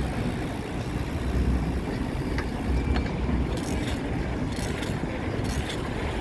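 Wind rumbling steadily on the microphone during a bicycle ride, with faint rustles and taps higher up from about three seconds in.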